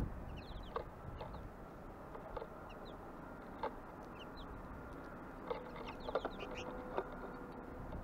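Small birds at a feeder giving short, high chirps in quick little runs, with several sharp clicks scattered through, over a low steady background hum.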